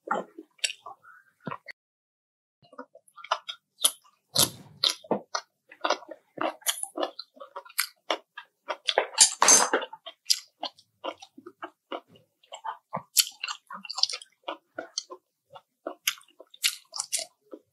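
Close-miked eating sounds: a person biting and chewing food, with many irregular sharp crunches and clicks, a short lull about two seconds in and a louder run of crunching near ten seconds in.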